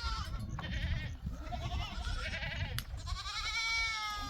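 Sheep bleating: several wavering calls overlap, the longest from about three seconds in, over a low rumble, with one sharp click just before three seconds.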